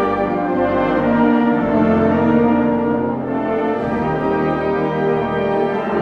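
Orchestral music with brass, French horn prominent, playing sustained notes over strings.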